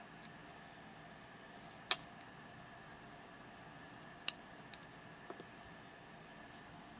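A few sharp clicks and ticks of a small Phillips screwdriver and a tiny screw against a camera body while a screw is fitted. The loudest click comes about two seconds in and another a little after four seconds, with lighter ticks around them, over a faint steady hum.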